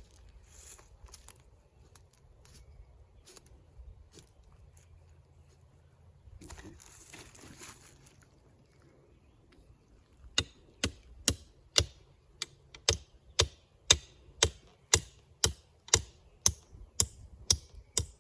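Scattered light rustling and clicks, then, about ten seconds in, a steady run of loud, sharp blows, about two a second, like a tool striking repeatedly.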